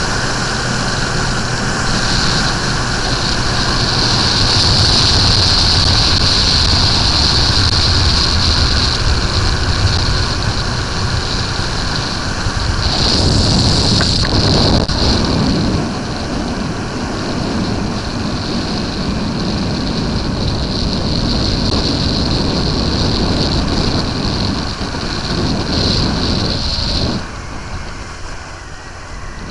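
Suzuki GSX-R 1100 inline-four motorcycle being ridden at speed, its engine drone under heavy wind rush on the microphone, easing off a little near the end.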